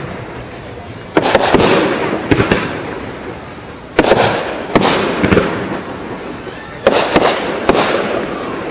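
Aerial firework shells bursting overhead in three volleys about three seconds apart. Each volley is a sharp bang followed by one or two smaller reports, with a rolling echo trailing away after each.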